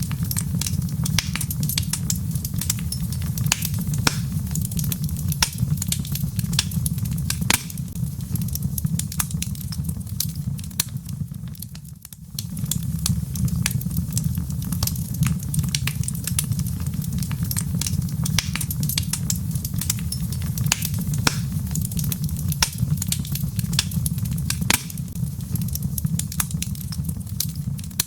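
Wood log fire crackling in a fireplace: a steady low rumble of flames with frequent sharp pops and snaps of burning wood. The sound dips briefly about twelve seconds in.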